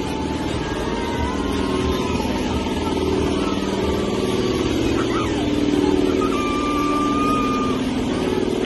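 Steady hum of a running engine or motor, with a few faint, thin high tones over it, one held for about a second late on.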